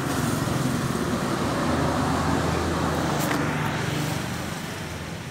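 Yamaha RX-King's single-cylinder two-stroke engine running through a racing expansion-chamber exhaust, swelling over the first couple of seconds and easing off toward the end.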